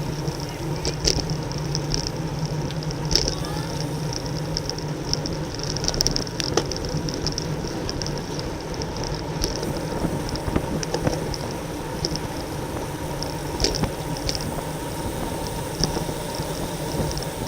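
Road bike ridden at race speed: a steady hum of riding noise with scattered sharp clicks and ticks.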